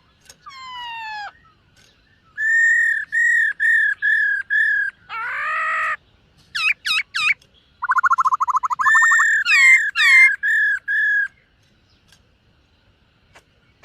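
Black-throated laughingthrush singing a varied whistled song: a falling slurred note, a run of about six repeated whistles, a harsh buzzy note, quick looping whistles and a fast trill, then a last series of whistles that stops about eleven seconds in.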